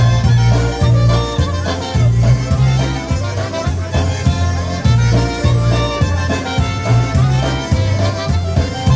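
Live polka band playing an instrumental passage between sung verses, over a steady, regular bass beat.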